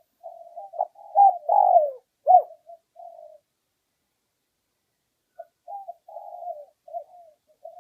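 Spotted dove (Streptopelia chinensis) cooing: a phrase of soft coos with a few louder falling notes, a pause of about two seconds, then the next phrase begins.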